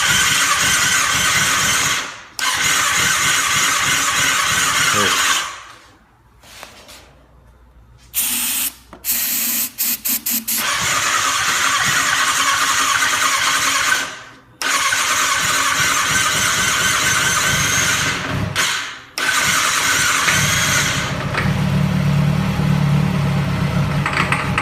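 2007 Kawasaki ZX-6R inline-four being cranked on its electric starter: long high-pitched whirring attempts separated by short pauses, with a run of quick short stabs at the starter about a third of the way in. Near the end a deeper steady running note joins in.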